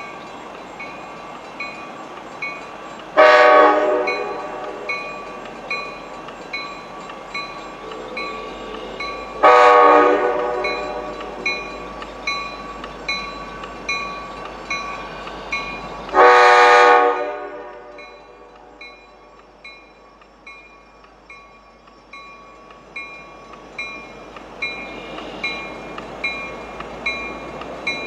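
A train horn sounding three blasts, each about a second long and several seconds apart, while a grade-crossing bell rings steadily at about one and a half strikes a second.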